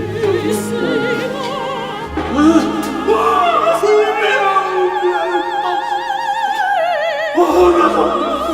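Operatic singing with a wide vibrato over orchestral accompaniment, the sustained notes shifting into a fuller new phrase near the end.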